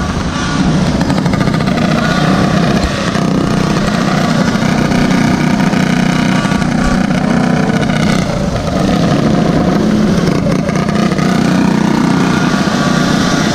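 Small engine of a mini bike or Goped running under way at a steady throttle, with a step up in level just under a second in and a couple of brief dips.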